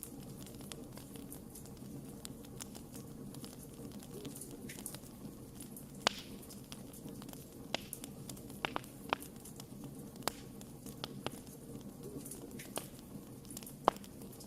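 Campfire of burning wood crackling: irregular sharp pops and snaps over a low, steady rumble of flame. Two louder pops stand out, one about six seconds in and one near the end.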